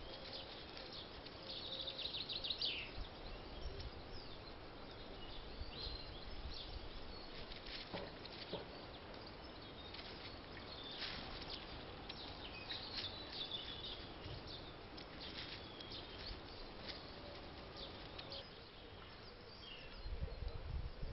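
Small birds chirping and calling in short bursts over a steady outdoor background hiss, with a low rumble near the end.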